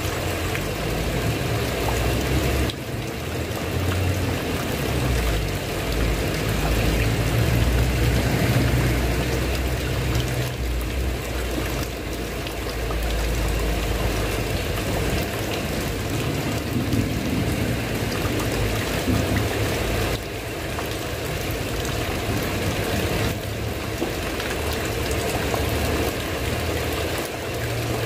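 Steady rain falling on a tiled roof and wooden house, with a low rumble underneath that swells and fades, strongest through the first half.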